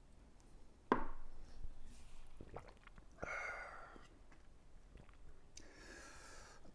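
A person eating quietly, chewing with a few small knocks and clicks of utensils or dishes, a sharper knock about a second in.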